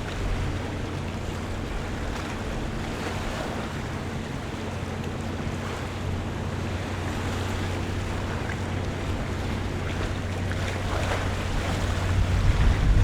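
Waterfront ambience: water lapping and washing, with a steady low engine hum underneath. Wind on the microphone adds a low rumble that grows louder near the end.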